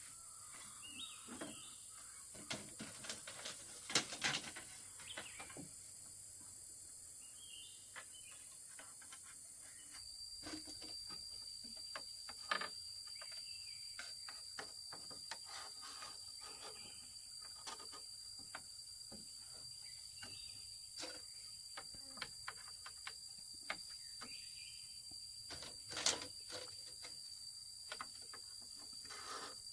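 Outdoor ambience of light work: scattered knocks and taps, with small bird chirps. A steady high-pitched whine starts about a third of the way in and runs until just before the end.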